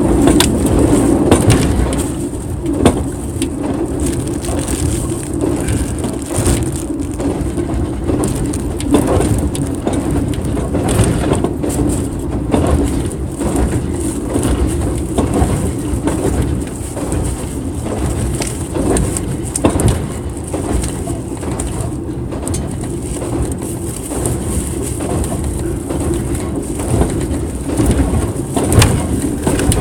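Passenger sleeper train running: a steady rumble with many irregular clicks and knocks from the wheels on the rails.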